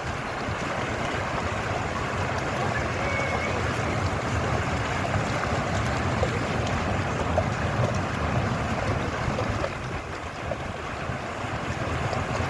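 Fountain water splashing and rushing steadily.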